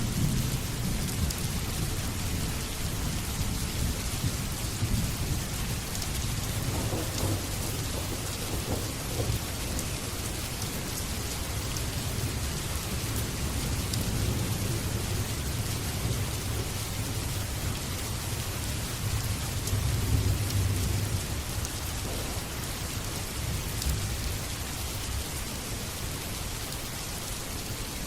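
Steady rain falling, with low rolling thunder rumbling underneath that swells a few times.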